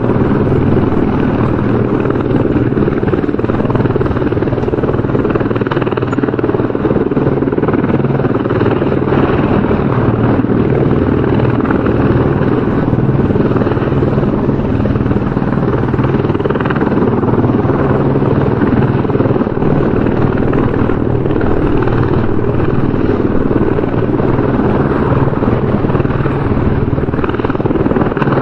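Helicopter rotor and engine noise, loud and steady, with no rise or fall.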